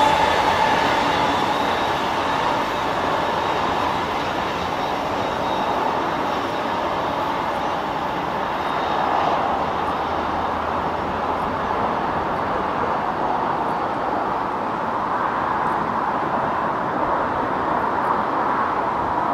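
Train running along the line: a steady rumble of wheels on rail. Its high hiss dies away over the first few seconds.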